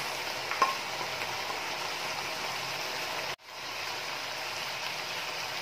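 Pork and vegetables sizzling and simmering steadily in a wok, with a short tick under a second in as peas go in. The sound cuts out for a moment a little past halfway, then returns.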